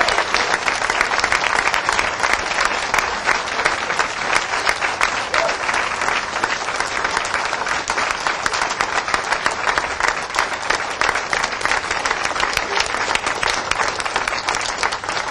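Crowd applauding steadily, many hands clapping at once, easing off slightly near the end.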